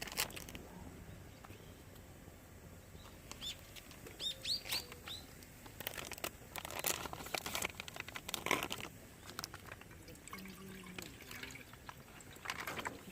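A bird gives a quick run of about five high, falling chirps a few seconds in, over scattered clicks and knocks from camp handling.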